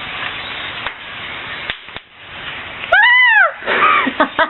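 Steady chattering din of a huge flock of blackbirds. About three seconds in, a single loud drawn-out call that rises and then falls in pitch cuts over it, followed by a few shorter calls.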